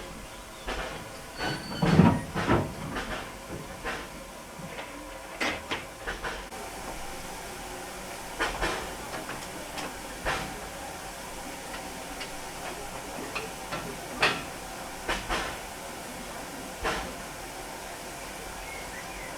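Narrow-gauge steam locomotive and its train at a standstill: a steady hiss of steam with scattered, irregular metallic clanks and knocks, the loudest about two seconds in.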